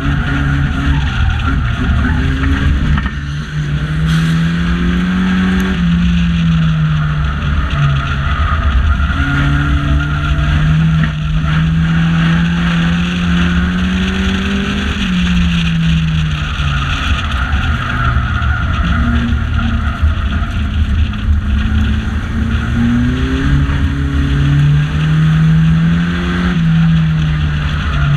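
Banger racing car's engine heard from inside the cockpit under racing load, its note climbing slowly along each straight and dropping back at each corner, three times, over a heavy low rumble.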